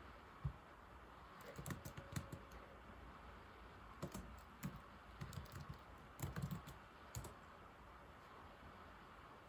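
Old laptop keyboard being typed on: short runs of key clicks broken by pauses, stopping near the end.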